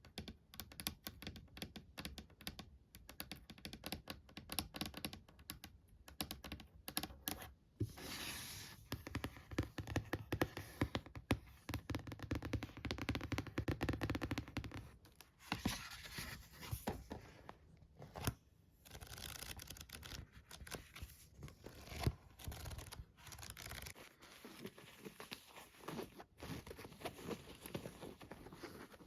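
Close-miked ASMR triggers: rapid tapping and clicking on objects, then several seconds of continuous scratching or rubbing, then more scattered taps and scratches.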